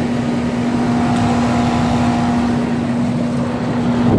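2006 Rheem Classic 3-ton R-22 straight-cool central air conditioner condensing unit running steadily: a constant hum under the even rush of its condenser fan.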